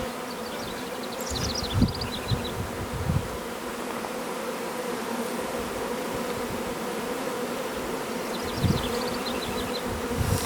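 Large honeybee swarm buzzing steadily, a dense hum of many bees at once.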